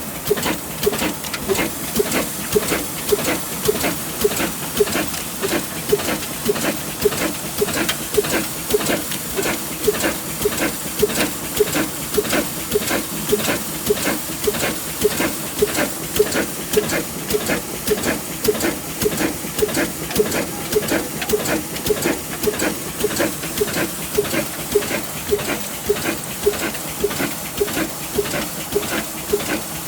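Old stationary engine running steadily, with an even chugging of about two to three strokes a second over a steady hiss.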